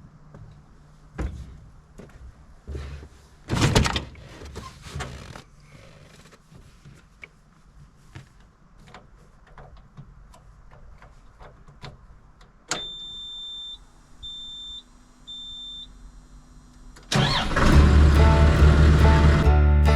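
Scattered knocks and clicks, then a high electronic warning beep sounding three times, then an engine is cranked and starts loudly near the end.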